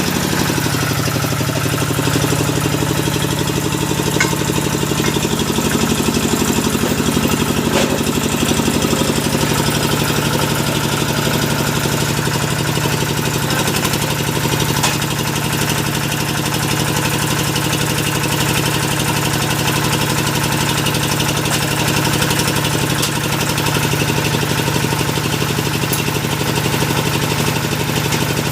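Engine of a hydraulic deep-well drilling machine running steadily, with a few faint knocks over its hum.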